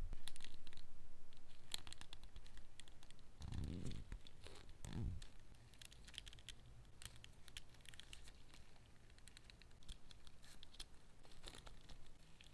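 Toy packaging being handled and opened: crinkling, scratching and tearing sounds with many small clicks, and two dull thumps about three and a half and five seconds in.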